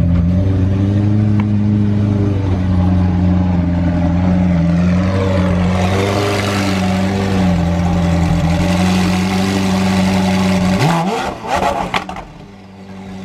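Car engine running with a loud, steady low drone. About eleven seconds in, a quick upward sweep in pitch and a few sharp clattering knocks follow, after which the engine sound falls away.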